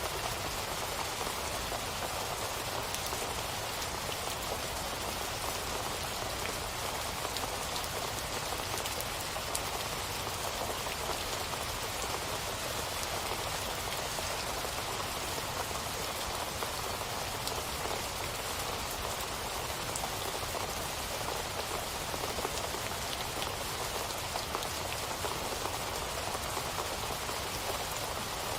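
Steady rainfall pattering on a surface, an even hiss with scattered small drop ticks.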